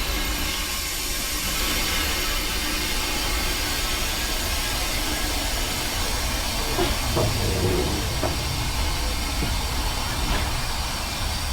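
Steam locomotive hissing steam steadily over a constant low rumble.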